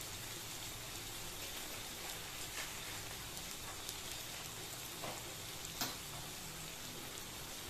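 Chili spice paste and tomato sizzling in hot oil in a wok: a steady frying hiss with a few short sharp clicks, the loudest about six seconds in.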